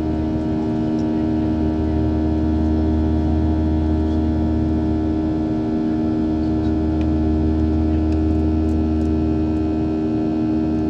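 Steady drone of a Boeing 737's jet engines heard inside the passenger cabin: a deep rumble under a few fixed humming tones, holding at one pitch and level.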